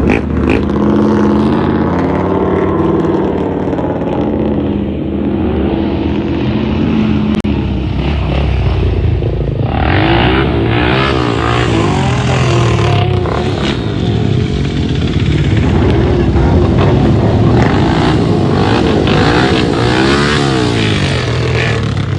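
Vehicle engine running loud and being revved hard, its pitch sweeping up and down again and again, mostly in the second half, over a steady rumble.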